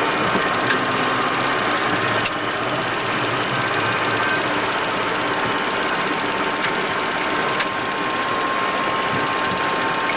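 Steady cockpit noise of a Boeing 737-200 freighter on the ground with its Pratt & Whitney JT8D engines running: an even rush with a faint steady whine, broken by a few sharp clicks.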